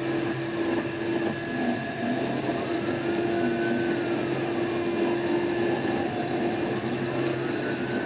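Patrol car running at speed with a steady drone of road and engine noise. A police siren wails in slow rising and falling sweeps over it.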